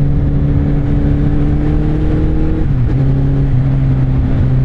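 First-generation Kawasaki Z1000's inline-four engine running through an Akrapovic exhaust under way, its note steady and then stepping down in pitch nearly three seconds in.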